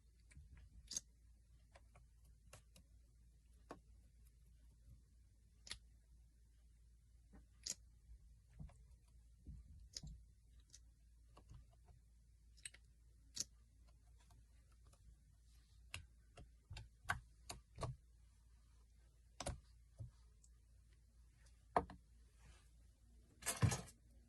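Slime being pressed and poked, giving faint, scattered sharp clicks and small pops at irregular intervals, with a brief crackling squish near the end.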